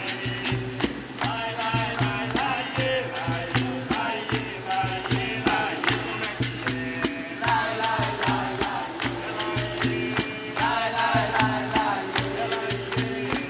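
Capoeira roda music: several voices singing phrases together over a steady beat of percussion strikes.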